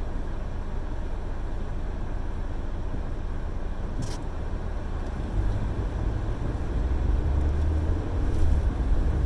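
Low rumble of road and engine noise inside a moving car's cabin, growing louder about halfway through, with a single faint click about four seconds in.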